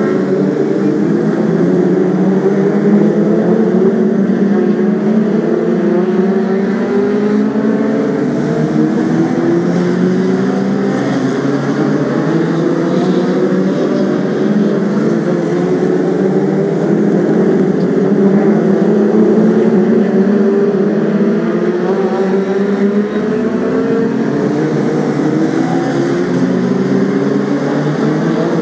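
A pack of BriSCA F2 stock cars racing, many engines running together, each one revving up and easing off over and over in overlapping rising and falling notes.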